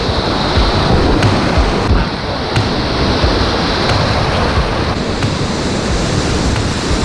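White-water river rapids rushing past at close range, a loud, steady wash of water, with wind buffeting the microphone.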